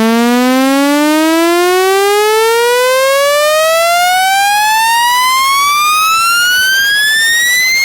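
Speaker-cleaner test tone: an electronic tone with strong overtones sweeping smoothly and steadily upward in pitch, from low to high. It is a frequency sweep played at full volume to shake water and dust out of a phone speaker, also used as a woofer test tone.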